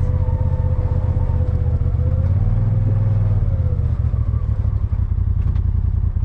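Motor vehicle running along at a steady pace: a deep engine-and-road rumble with a faint wavering whine above it, swelling briefly about halfway through.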